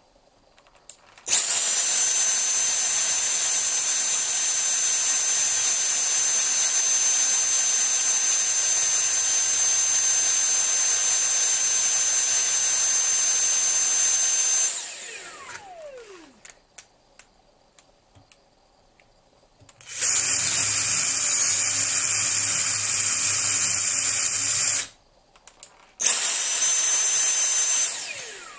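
Handheld vacuum cleaner's motor whining steadily while a cordless drill bores a hole through the dust adapter, then spinning down with a falling whine. Later a cordless drill runs alone for about five seconds, drilling with a rougher, lower sound. Near the end the vacuum runs again for about two seconds to suck up the dust and winds down.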